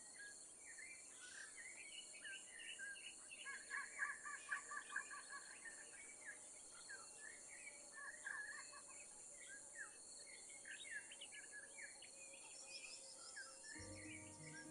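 Faint tropical forest soundscape: many birds chirping and trilling in short calls over a steady high insect hum.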